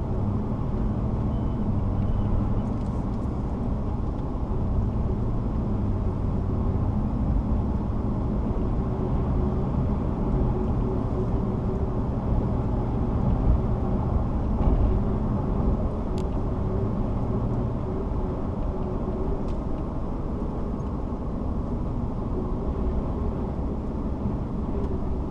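A car's engine and road noise heard from inside the cabin while driving, a steady low hum.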